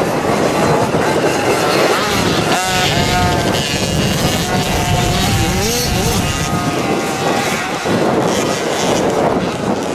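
Motocross motorcycles racing, their engines revving up and down, with pitch rising and falling as the bikes pass.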